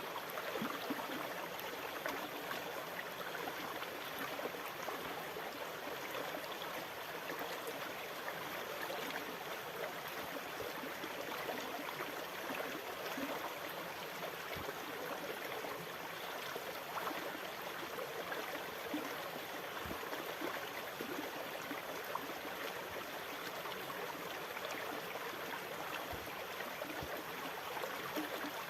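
Steady flowing water, a continuous gurgling and trickling wash that keeps an even level without the rise and fall of breaking waves.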